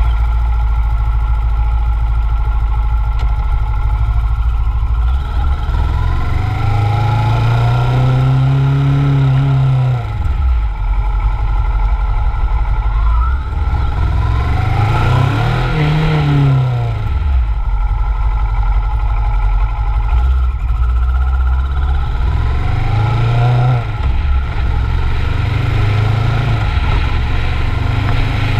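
Kawasaki Ninja 650's parallel-twin engine idling, then running as the bike rides off. Its pitch rises and falls three times as it accelerates and eases off.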